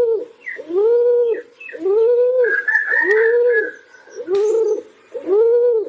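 Pigeon cooing: a steady series of short coos, each rising and falling in pitch, about one a second. A brief higher twitter joins in about halfway through.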